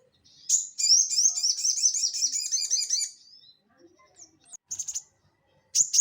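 Little spiderhunter (sogon) singing: a rapid, high, chattering run of quickly repeated slurred notes lasting about two and a half seconds, then a few scattered short notes and one sharp call near the end.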